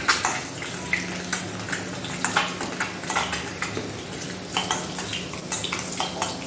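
Potato pieces sizzling in hot oil in a kadai, stirred with a spatula that scrapes and clinks against the pan again and again.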